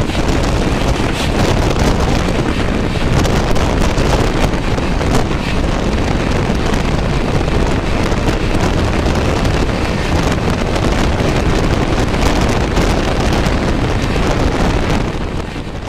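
Steady rushing wind and wheel-on-rail noise of an express train running at high speed, heard from on board, with wind buffeting the microphone. It fades away near the end.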